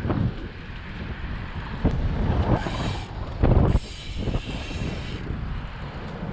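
Wind buffeting the microphone in uneven gusts while riding a bicycle, with bursts of higher hiss.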